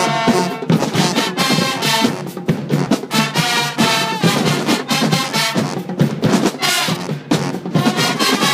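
High school marching band playing, brass horns over drums and percussion hits.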